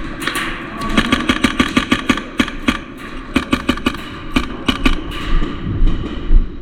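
Airsoft guns firing in fast bursts of sharp snapping shots. The densest burst comes about a second in, with shorter bursts a couple of seconds later.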